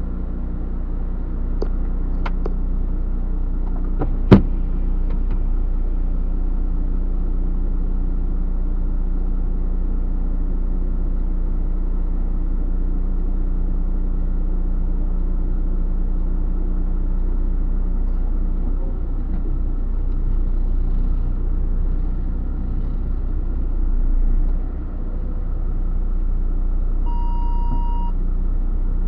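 Truck engine running with a steady low rumble. There is a sharp click about four seconds in and a short beep near the end.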